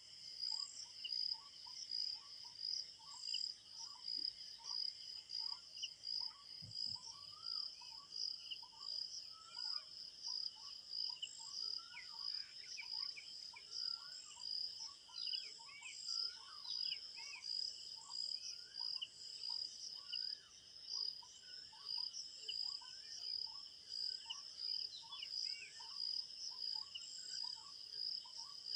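Crickets chirping in a steady, evenly pulsing rhythm, with birds repeating many short, high calls over them.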